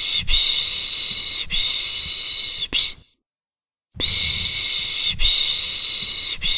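A person shushing a baby with a run of long, breathy 'shhh' hushes, about one stroke every second or so. The hushes stop for about a second near the middle, then the same run starts again as a repeating loop.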